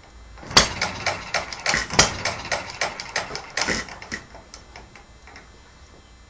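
Half-scale model Olds hit-and-miss engine firing with a sharp bang twice, about a second and a half apart, amid a fast run of clicks from the running engine. The clicking slows and fades out about four seconds in as the engine coasts.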